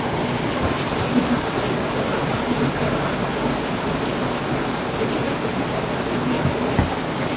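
Heavy rain falling steadily, with a few louder drops ticking now and then.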